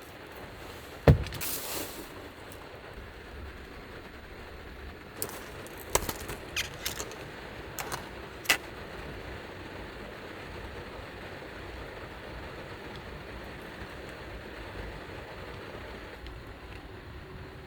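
Steady rain falling on the roof of a small kei van, heard from inside. A sharp knock comes about a second in, and a few lighter clicks and taps between about five and nine seconds.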